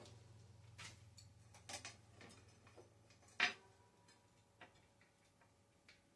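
Light, scattered clicks and knocks of metal bicycle parts being handled while a front wheel is fitted into the fork, with one sharper knock about three and a half seconds in.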